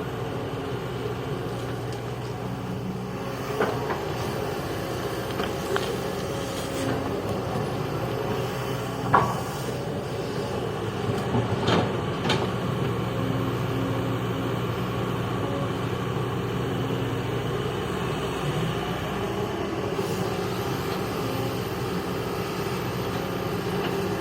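Kobelco excavator's diesel engine running steadily, with a few sharp metallic knocks, the loudest about nine seconds in.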